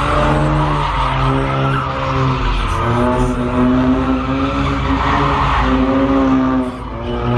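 A car engine revving hard, its pitch rising and falling, while the tyres squeal and skid as in a burnout or donuts.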